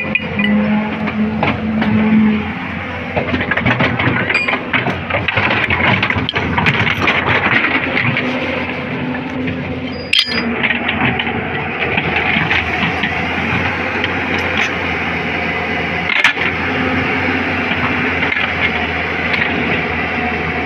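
Hyundai excavator's diesel engine running steadily while its track chain is refitted, with scattered metal knocks and clanks, two sharper ones about halfway through and near the three-quarter mark.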